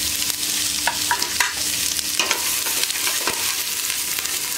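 Sliced onion, carrot and whole spices sizzling in hot coconut oil and ghee in a stainless-steel pot. A spoon stirs them, clinking and scraping against the pot a few times.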